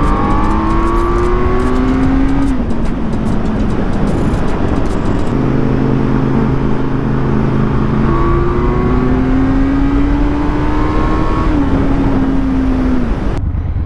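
2023 Kawasaki Z900's 948 cc inline-four pulling hard in third gear, its pitch climbing for about two seconds before the throttle eases off. It holds steady for a while, then climbs again and eases off a second time, with heavy wind rush over it. The sound cuts off abruptly near the end.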